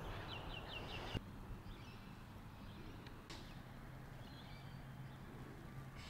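Faint bird calls over quiet outdoor background: a quick run of about six high chirps in the first second that cuts off suddenly, then a few fainter high calls later.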